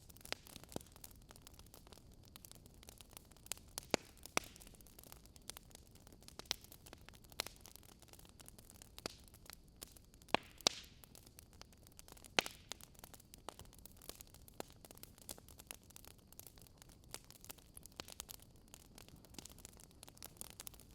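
Wood fire burning in a fireplace, crackling with irregular sharp pops and snaps over a low hiss. A few louder pops come about four seconds, ten seconds and twelve seconds in.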